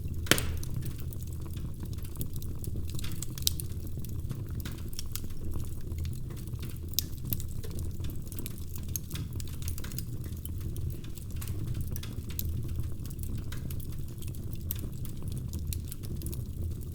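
Wood fire burning in a fireplace, crackling with irregular snaps and pops over a steady low rumble of the flames; one sharp pop stands out just after the start, and another about three and a half seconds in.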